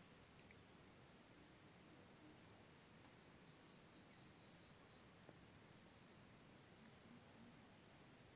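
Night insects, crickets, trilling: a steady, faint, high-pitched trill, with a second, lower trill that starts and stops every second or so.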